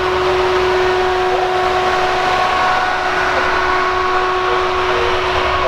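A steady mechanical drone holding one constant pitch, over a continuous noisy rumble.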